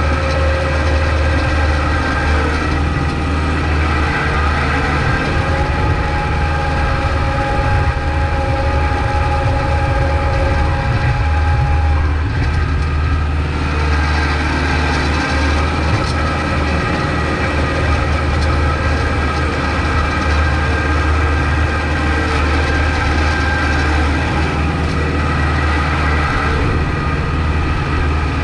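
Kubota MX5200 tractor's four-cylinder diesel engine running steadily while plowing snow, with a deep hum and a steady whine above it that fades briefly about halfway through, then returns.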